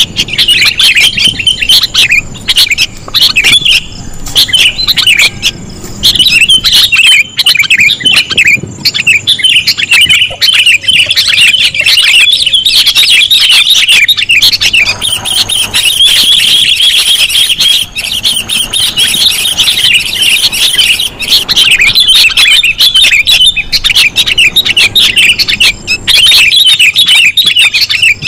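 Sooty-headed bulbul (kutilang) lure recording: loud, rapid, continuous chirping and chattering calls, with only brief gaps, used as a call to attract bulbuls.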